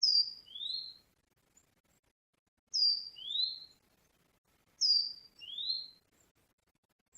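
A songbird calling, each phrase two high notes: a short falling note, then a rising one. It is repeated three times about two and a half seconds apart.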